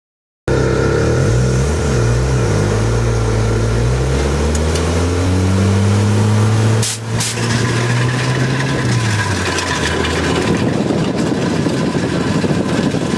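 A vehicle engine revving up and down, then holding a steady note. There is a brief break about seven seconds in, and the sound turns rougher from about nine seconds.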